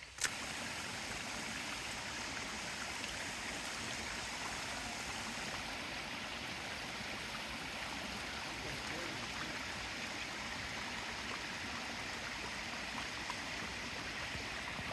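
Small creek flowing, a steady rush of water that holds even throughout.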